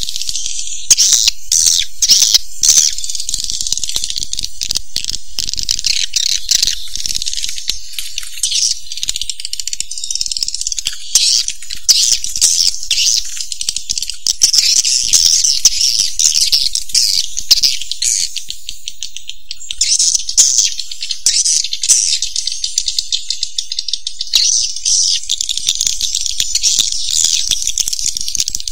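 Swiftlet calls: a dense, continuous, high-pitched chattering of rapid rattling clicks and chirps. It is a recorded lure call of the kind played to attract swiftlets to a nesting house.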